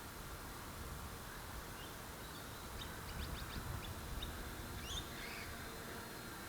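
A small bird chirping: a quick series of short, falling chirps in the middle and a couple more near the end, over a low rumble of wind on the microphone.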